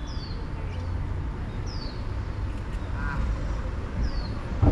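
A bird giving a short, high call that falls in pitch, three times at intervals of about two seconds, over a low, steady outdoor rumble.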